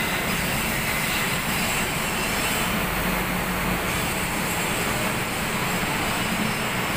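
Steady industrial drone of shipyard machinery inside a ship's hull, an even rushing noise with a low hum underneath and no distinct knocks.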